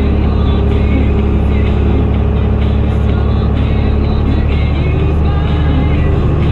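Fendt Favorit 926 Vario tractor's six-cylinder MAN diesel running steadily through an open exhaust, with a deep, even drone while working the silage pit.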